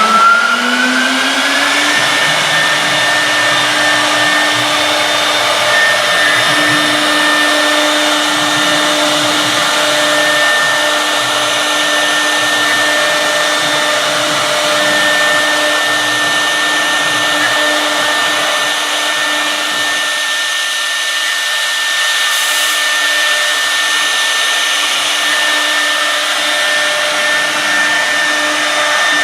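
Woodworking CNC router spindle whining as it spins up, its pitch rising over the first two seconds, then running at a steady speed.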